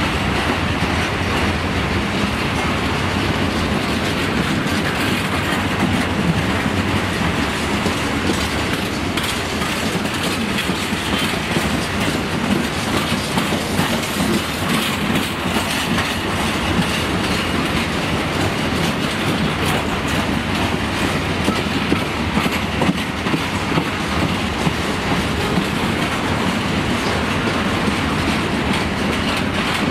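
Freight train of open wagons rolling past, its steel wheels clattering continuously over the track in a steady rattle.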